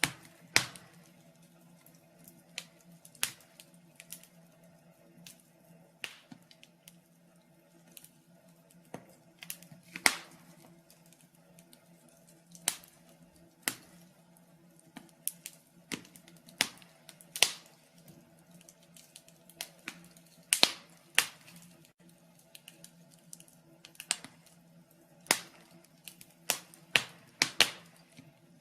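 Wood fire in a fireplace crackling: irregular sharp pops and snaps, a few loud ones among many faint ticks, over a faint steady low hum.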